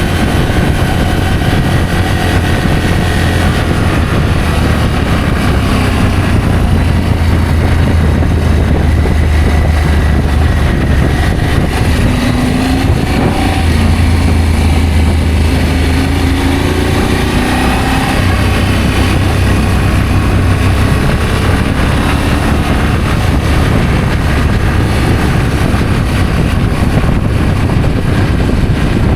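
Adventure motorcycle riding along with its engine running steadily over a heavy low rumble, the engine note rising and falling a little around the middle.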